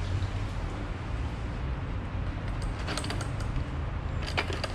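A steady low rumble under a faint hiss. Short light clicks and clinks come about three seconds in and again near the end, typical of parts being handled during the fuel pump job.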